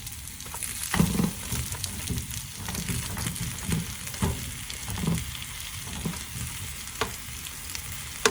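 Bread toasting in a hot pan on the stove, sizzling steadily, with a few short knocks from handling it in the pan.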